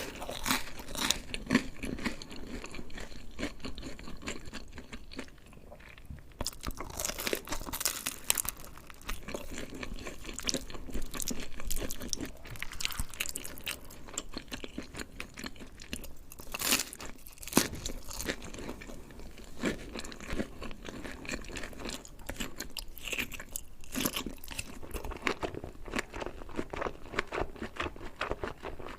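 Close-miked eating: a person chewing and biting, with crunching and wet mouth clicks in an irregular, continuous stream that eases off briefly about five seconds in.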